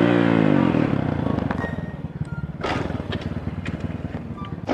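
Pit bike's small single-cylinder engine revving up hard as it pulls off in second gear for a wheelie, then easing and fading to a steady fast beat as the bike rides away.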